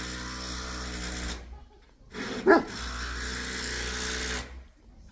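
A dog gives one short bark about two and a half seconds in. Under it runs a steady mechanical hum that cuts out briefly just before the bark and again near the end.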